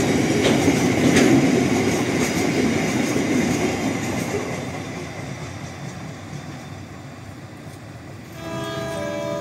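Train running along the rails with wheel-on-rail rumble, gradually fading away as it passes. Music comes in near the end.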